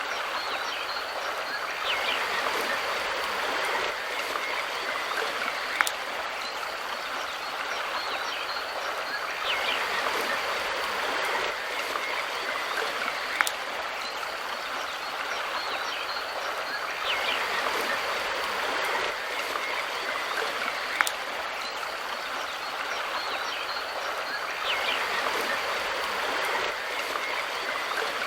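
Mountain river flowing steadily, an even rush of water that swells slightly about every seven and a half seconds, with a sharp click at the same spacing.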